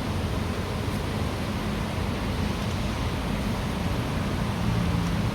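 Steady hiss of falling rain. A low hum grows stronger near the end.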